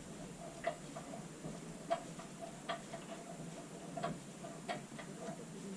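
Regular ticking, about one and a half ticks a second, each tick a short click with a faint ring to it, over a low steady background hum.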